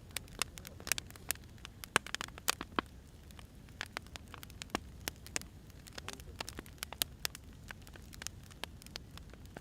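Wood fire crackling: irregular sharp pops and snaps, several a second, over a low steady rumble of burning logs.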